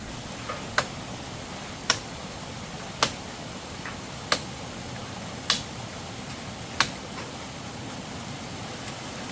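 A series of sharp knocks, six in all, about one every second and a bit, over a steady hiss.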